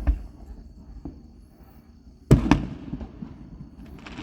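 Aerial fireworks bursting: a sharp double bang at the start, then a louder double bang about two seconds in that rumbles away. A dense crackling hiss from a crackle shell starts near the end.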